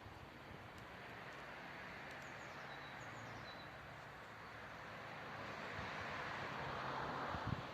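A vehicle approaching, its low engine hum and rumble growing steadily louder toward the end, with a few faint bird chirps about two to three seconds in.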